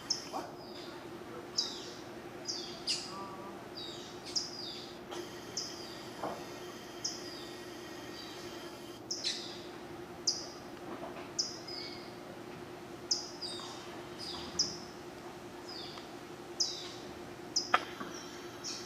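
Birds calling: short, sharp notes that slide downward in pitch, repeated roughly once or twice a second, over a steady low hum.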